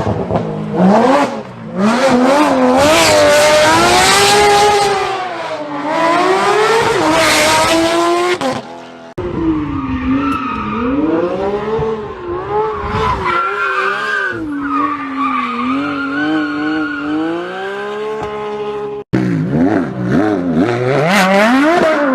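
Porsche sports car engines revving and accelerating in several short clips cut together, the engine pitch rising and falling again and again. A loud rushing noise sits over the engine for the first several seconds, and the sound changes abruptly twice where the clips are cut.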